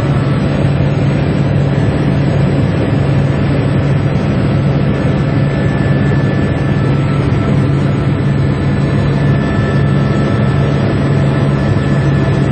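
Helicopter in flight: a loud, steady drone of engine and rotor noise with a strong low hum and no change in level.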